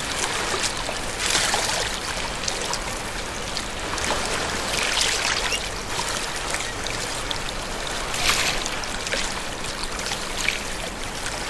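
Stream water flowing and trickling, a steady rushing wash with a few brief surges.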